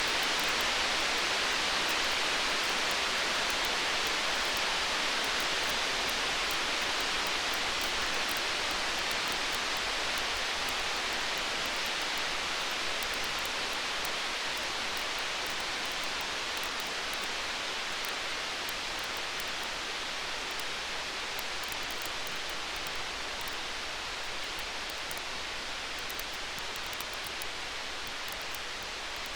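Steady, even hiss of stormy-night ambience like heavy rain, with faint, fine crackling of a wood fire over it; the level eases slowly downward.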